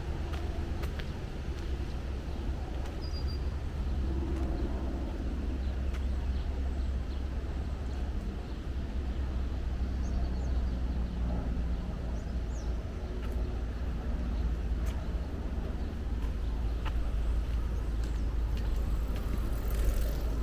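Outdoor forest ambience: a steady low rumble with a few faint bird chirps and scattered light clicks.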